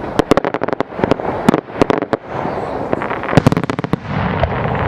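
Fireworks going off: rapid runs of sharp pops and bangs, like crackling firecrackers, in two dense clusters, one at the start and another about three and a half seconds in.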